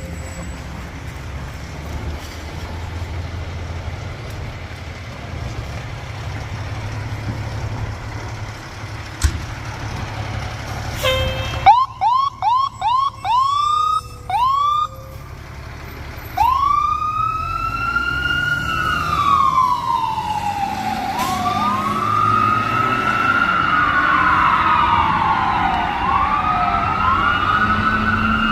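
Fire engine siren: a low engine rumble, then about twelve seconds in a quick run of short rising whoops, followed by a siren wailing slowly up and down with a second wail overlapping it. This is an emergency response with lights and siren.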